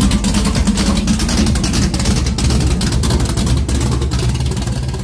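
Loud, steady running of a 410 cubic inch small-block Chevy stroker V8, with music mixed over it.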